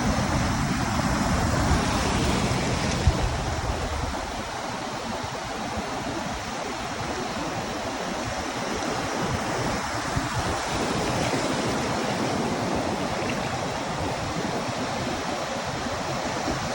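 Ocean surf washing on the beach as a steady hiss, with wind rumbling on the microphone for the first few seconds.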